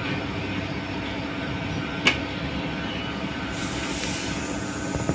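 Steady mechanical running hum with a sharp click about two seconds in and a high hiss that starts a little past halfway.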